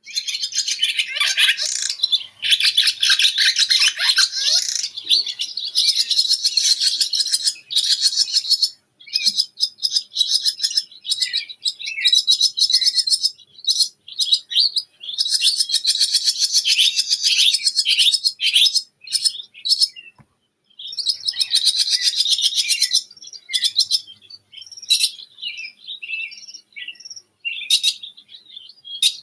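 Birdsong: rapid, high-pitched chirps and trills in phrases several seconds long, broken by short pauses. It starts abruptly out of silence.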